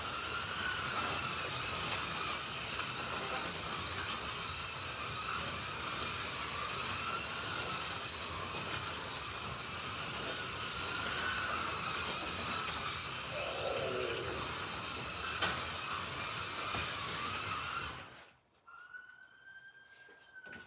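Slot cars' small electric motors whining on the track, the pitch wavering up and down as the cars speed up and slow for corners, with a sharp click about three-quarters of the way in. The whine cuts off abruptly near the end, and a fainter tone then glides up and back down.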